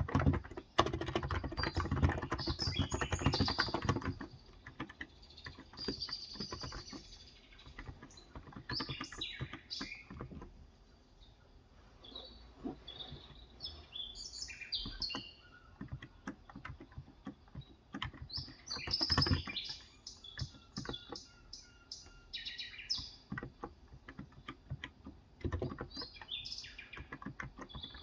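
Typing on a Cox Endeavor electrostatic capacitive (Topre-style) keyboard with light 35 g switches: a fast run of soft keystrokes for the first four seconds, then scattered keys and a short burst about nineteen seconds in. Small birds chirp and twitter throughout.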